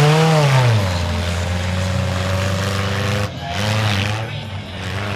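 Mini monster truck's motorcycle engine revving up and dropping back, then holding a steady drone; after a brief dip past the middle it revs up and down once more.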